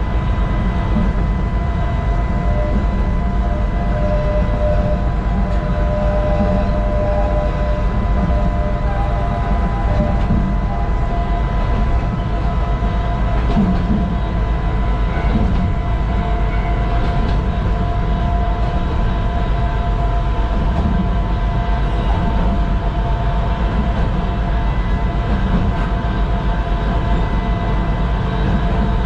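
Interior sound of a 762 mm narrow-gauge electric train running along single track: a steady low rumble of wheels and running gear, with a faint steady high tone over it.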